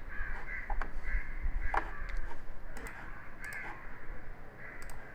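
Crows cawing repeatedly in the background, a series of short calls, with a few sharp computer mouse clicks among them.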